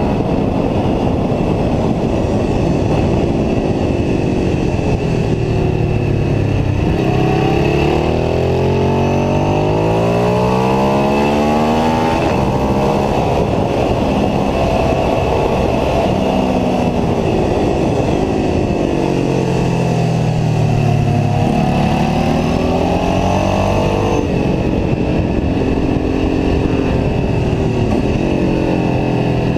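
Ducati 749S L-twin engine at racing revs, heard onboard. Its pitch climbs steeply and breaks at gear changes, falls away as the bike slows, then climbs again near the end.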